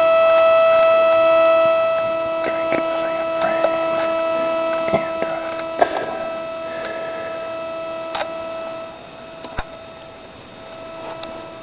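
Steady electronic hum and whine: interference from a radio-control transmitter bleeding into the camera's electronics, heard as a set of fixed tones, with a lower tone cutting in and out. Scattered sharp clicks sound over it. The hum is loudest at first, then eases and drops lower about nine seconds in.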